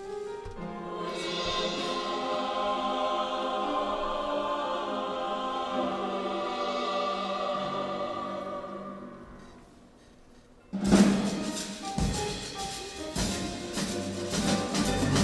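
Choral concert music: a long sustained chord that fades away about two-thirds of the way in. Then a loud percussive passage starts suddenly, with repeated drum strikes under the pitched parts.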